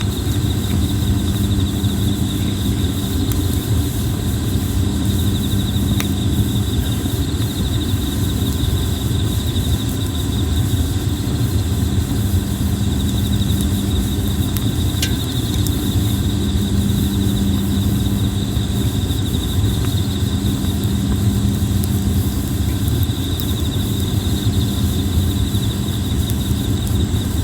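Insects trilling steadily in a fast, high pulsing chorus over a steady low rumble. A plum-wood campfire gives only a couple of sharp crackling pops.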